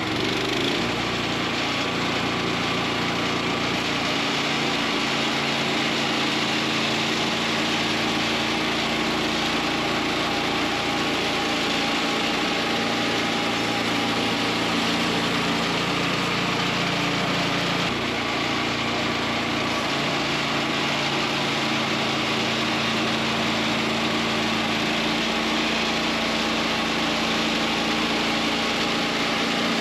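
Small pull-start gas engine of a portable sawmill running steadily under load during a cut through a log, its pitch shifting slightly a little past halfway.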